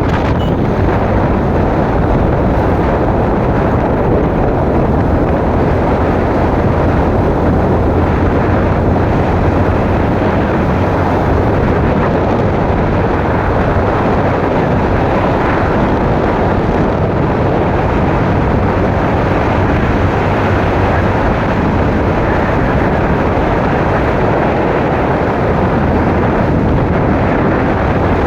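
Steady wind rush on the microphone of a moving motorcycle, with the engine's low, even hum underneath.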